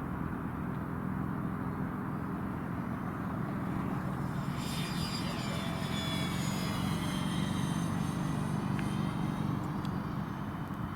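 C-130 propeller aircraft flying past: several high whining engine and propeller tones come in about four and a half seconds in and slowly fall in pitch. Under them runs a steady low rumble of wind on the microphone.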